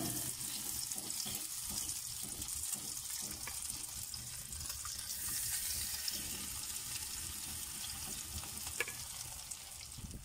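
Grated-potato pancake batter sizzling steadily in hot oil in a frying pan, with now and then a light click.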